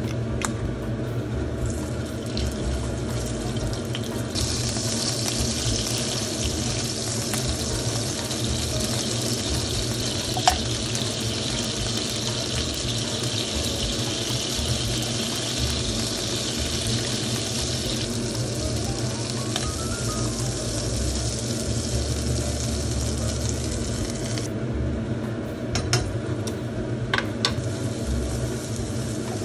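Pre-boiled octopus leg frying in olive oil and butter in a frying pan, a steady sizzle starting a few seconds in and stopping suddenly about twenty seconds later. Near the end a wooden spoon clicks a few times against the pan as minced garlic is stirred in.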